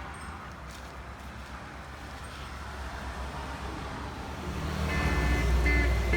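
Steady background noise with a low hum. Acoustic guitar music fades in about five seconds in and grows louder.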